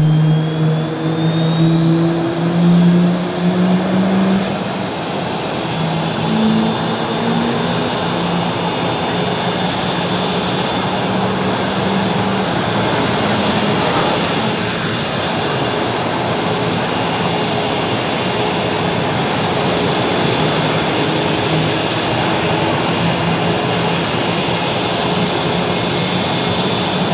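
F-117 Nighthawk's jet engines running. A steady rushing noise carries several high whine tones, one rising in pitch over the first few seconds before levelling off, then holds steady.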